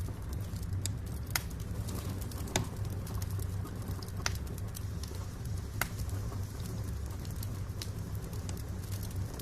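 Wood fire burning in a fireplace: a steady low rumble with sharp crackling pops of the burning logs every second or two.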